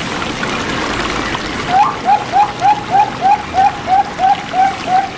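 Zebra dove (perkutut) cooing: a rapid run of about a dozen short notes, each rising then falling, about three a second, starting a little under two seconds in. Behind it is a steady trickle of running water.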